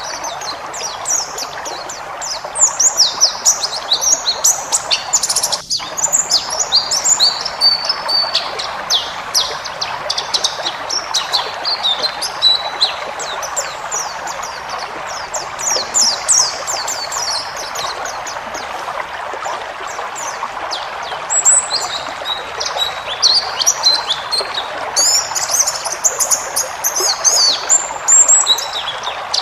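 White-eye (pleci) singing a long, rapid, twittering song of high chirps, with almost no pauses, over a steady background hiss.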